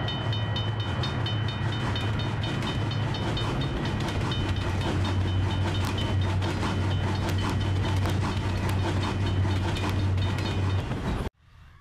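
Train passing sound effect: a steady low rumble with rhythmic clicking of wheels over rail joints, and an evenly repeated high ringing over the first few seconds. It cuts off abruptly about half a second before the end.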